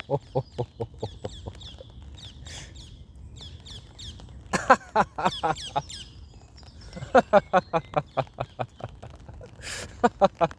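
A man laughing heartily in repeated bouts of rapid "ha-ha-ha" pulses, drawing breath between bouts, while birds chirp in the background.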